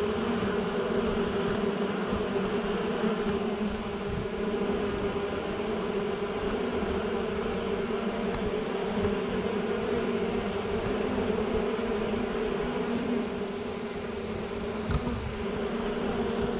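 A swarm of honey bees buzzing steadily around a nuc box, a continuous hum of many wings with no break. The swarm is settling in, with bees circling in orientation flights around their new home.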